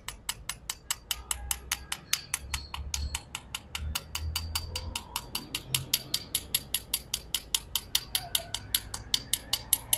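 A hammer rapidly tapping a fresh stick weld on thin steel, about five or six sharp metallic strikes a second, knocking the slag off the weld bead.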